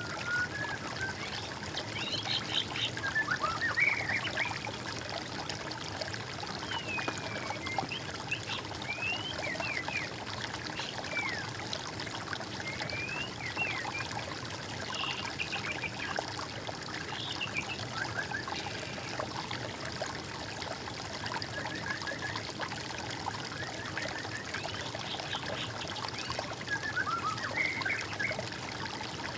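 Water trickling steadily, with several birds singing over it in short chirps and quick rising and falling phrases.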